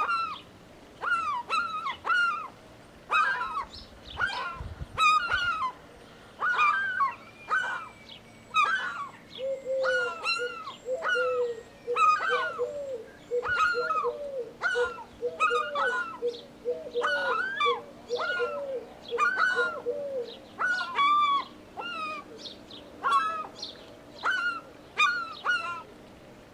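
Seagulls calling over and over: sharp, arched calls, one or two a second throughout. From about ten seconds in to about twenty seconds, a faster, lower series of calls runs beneath them.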